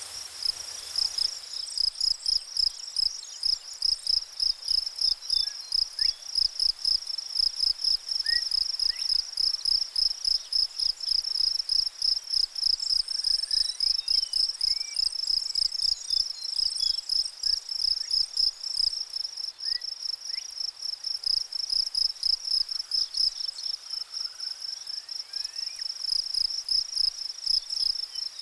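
A chorus of insects trilling high and steadily, pulsing about two to three times a second, swelling in about a second in, with a few faint high chirps from other creatures.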